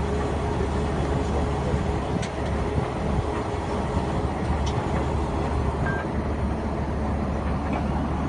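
Heavy engine of a truck-mounted rotary table water well drilling rig running steadily, with a few faint clicks.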